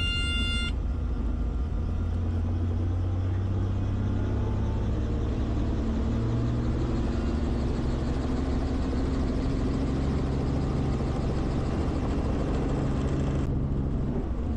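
Helicopter running in flight, a steady low drone of rotor and engine.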